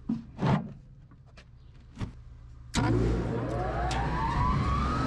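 A few knocks, then a machine starts up suddenly nearly three seconds in and runs steadily, with a whine that rises in pitch over about two seconds as it spins up.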